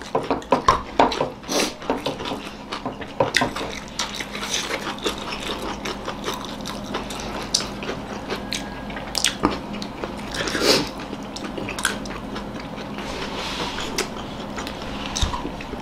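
People eating rice and pickles with their hands: chewing and wet mouth smacks, heard as irregular clicks, with fingers working the food on their plates.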